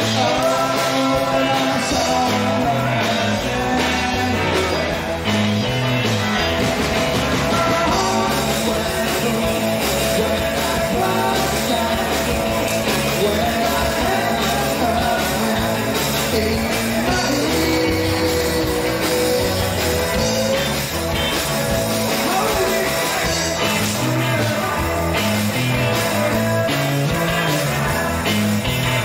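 Live rock band playing an upbeat rock-and-roll song, with a singer over the band.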